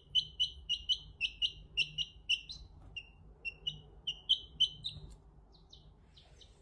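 A small bird chirping over and over, short high chirps at about three or four a second, growing fainter and more scattered after about five seconds.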